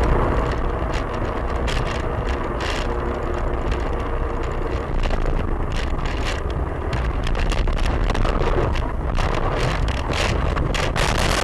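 Steady road and engine noise of a moving car, with a strong low rumble and many short clicks and rattles scattered throughout.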